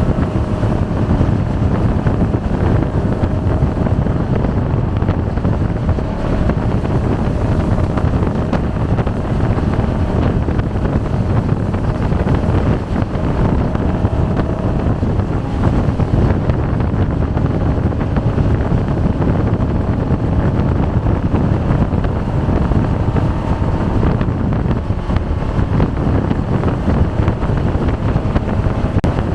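Jet boat under way at speed: its engine running steadily under heavy wind buffeting on the microphone.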